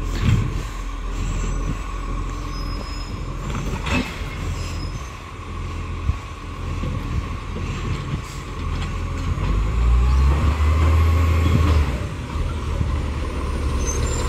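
Garbage truck's diesel engine running with a steady low rumble and a faint whine, punctuated by a few sharp metallic knocks.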